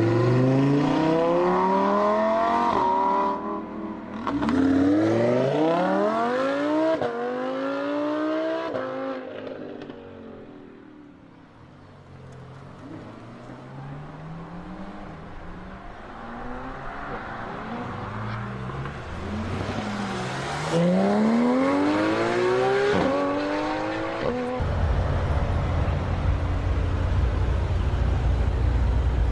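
Mercedes-AMG car engine and exhaust accelerating hard through several gears, the pitch climbing and dropping back at each upshift. It fades away midway, then accelerates through gears again. Near the end it changes to a loud, steady low rumble.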